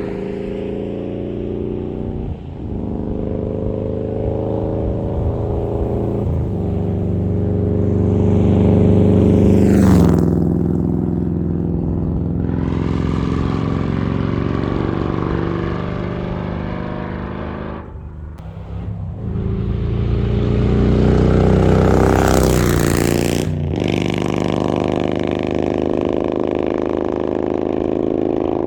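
Harley-Davidson Milwaukee-Eight V-twin with an SS 475 cam, running through Mutazu 2.0 megaphone slip-on exhausts, accelerating on the road. Its pitch climbs and drops back several times, and it is loudest twice: about a third of the way in and again after two-thirds.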